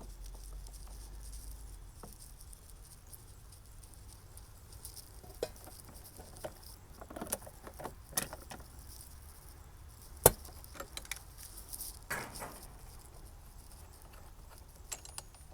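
Scattered metal clicks and clinks of channel-lock pliers breaking loose and turning the rod nut on a Woodford Model 17 outdoor faucet, with one sharp click about ten seconds in.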